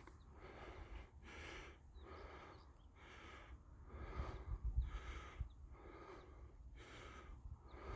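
Faint rhythmic breathing, about one breath a second, each breath a short rush of air with a brief pause between.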